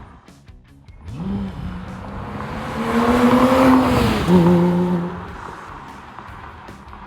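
2008 Porsche Boxster RS 60 Spyder's 3.4-litre flat-six with sport exhaust accelerating, the engine note rising and getting louder, dropping at a gearshift about four seconds in, then fading away.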